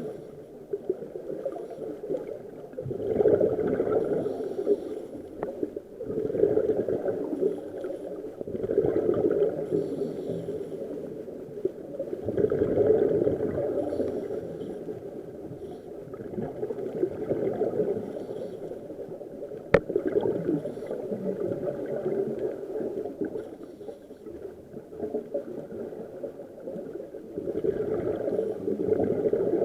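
Scuba diver's exhaled air bubbling out of the regulator underwater, a gurgling rush that swells and fades every few seconds with each breath. A sharp click comes about twenty seconds in.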